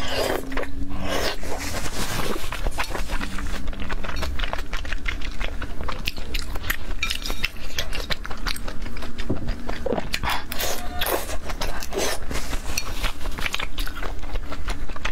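Close-up eating sounds of salmon slices in spicy sauce being slurped and chewed: dense, irregular wet mouth clicks and smacks.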